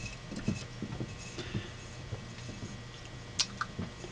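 Light clicks and taps of metal parts being handled on a vintage Sunbeam toaster, with a sharper click about three and a half seconds in, over a faint steady low hum.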